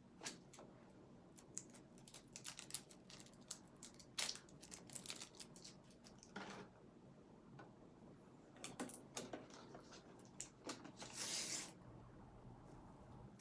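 Scattered light clicks, taps and rustles of objects being handled, with a longer rustle or tear about eleven seconds in.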